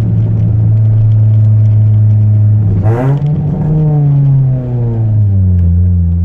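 Chevrolet Celta 1.0 four-cylinder engine through a 4-into-1 header and a two-inch exhaust with no mufflers, running at a steady speed; about three seconds in its pitch jumps up, then slowly falls and settles lower.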